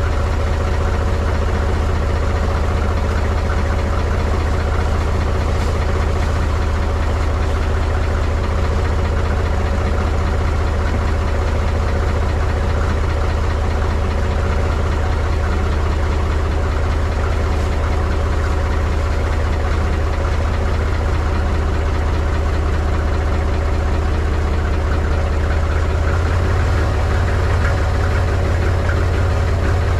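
Mahindra 3525 tractor's diesel engine idling, running steadily but chugging roughly just after a cold start at about 19 °F, not yet warmed up.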